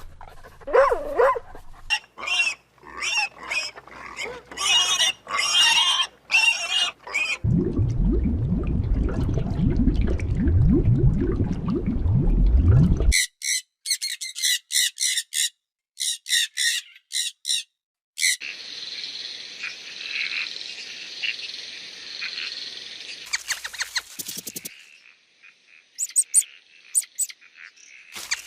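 A run of different animal calls one after another: pitched calls for the first several seconds, a loud low rumble for about five seconds, then rapid high chirps with gaps of silence, and a steady high hiss near the end.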